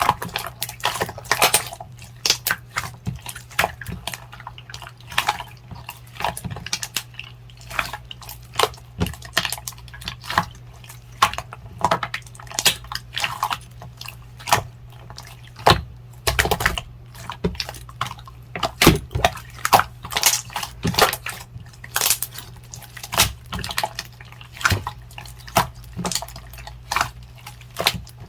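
Clear jelly slime being squished and pressed by hand, making irregular wet clicks and pops, several a second.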